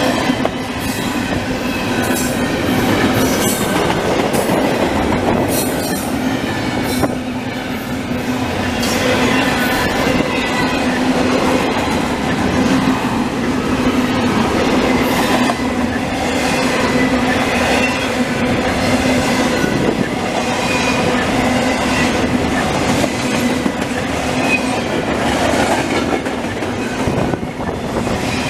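CN double-stack intermodal freight train rolling past close by at speed: steel wheels clattering on the rails with irregular sharp clacks, over a steady squealing tone from the wheels.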